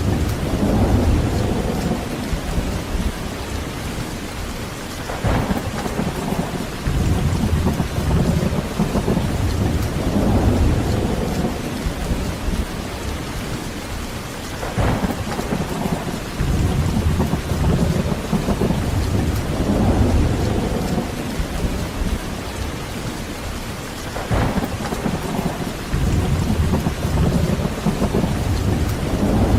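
Steady heavy rain, with rolling thunder rumbling in about every ten seconds; three of the rolls follow a short, sharp crack.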